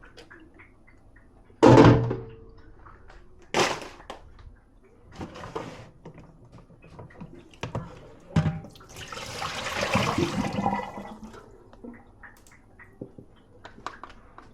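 Dishes clinking and knocking as they are handled in and out of a dishwasher. The loudest is a ringing clank about two seconds in, with another knock a couple of seconds later, smaller clatters after it, and a rushing noise lasting about two seconds near the end.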